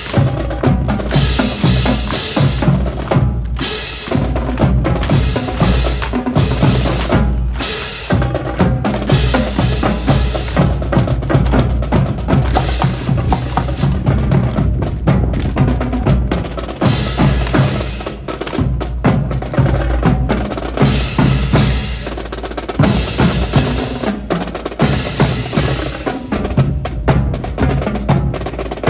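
Drum cadence of snare and bass drum playing continuous rhythmic patterns with rolls, with sharp wooden clacks among the beats.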